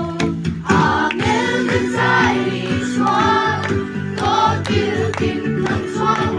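Group singing of a song by several voices, over instrumental accompaniment with a steady beat.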